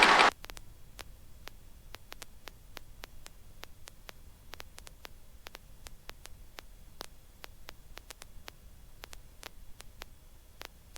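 Faint static crackle: scattered, irregular clicks over a low hiss on an otherwise quiet audio feed, with no engine or rotor sound heard.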